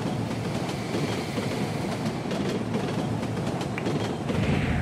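Train running on rails: a steady rumble with many short clicks from the wheels.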